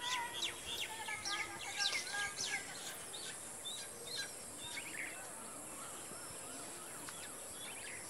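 Small birds chirping in quick, sweeping calls, busiest in the first three seconds and thinning out after about five seconds, over a steady high-pitched background whine.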